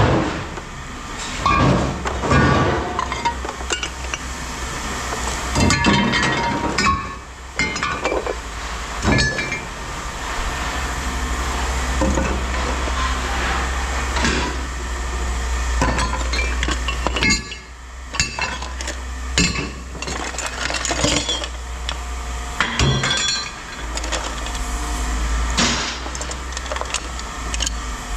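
Pieces of scrap metal clinking and clanking as they are handled and dropped, in irregular strikes with some ringing, over a steady low hum.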